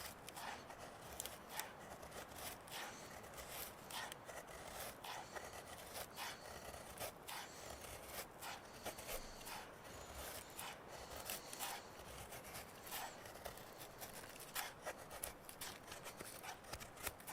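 Petromax bushcraft knife shaving thin curls off a stick of wood to make feather sticks: short, irregular scraping strokes, a few a second.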